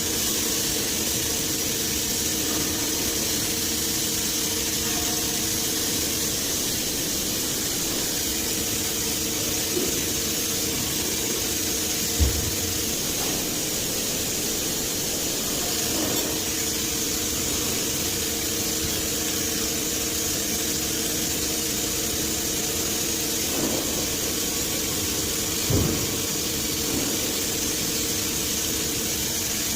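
CNC milling machine running steadily, a constant hum with several steady tones under a high hiss, broken by a few brief knocks, the loudest about twelve seconds in and another a little before the end.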